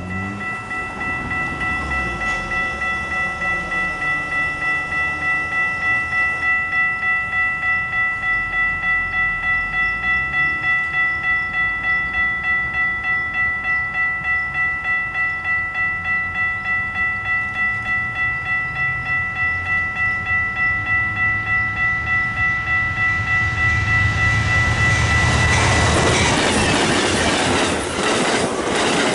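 A railroad crossing bell rings steadily at a regular two to three strokes a second as an Amtrak passenger train approaches. Near the end, the train's two GE P42DC diesel locomotives pass with a heavy rumble and the bell stops. Then comes the clatter of bilevel Superliner cars rolling over the rail joints.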